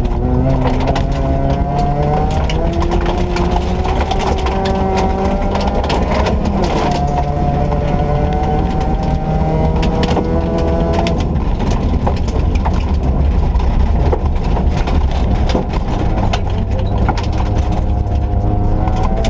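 Ford Ka rally car's engine running hard on a stage: the revs climb and drop back sharply at each gear change, several times over. Constant sharp clicks and rattles from the car run throughout.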